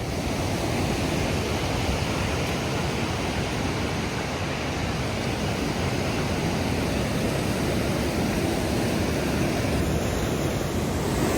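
Steady rush of fast-flowing water from a waterfall or mountain stream, an even noise without break.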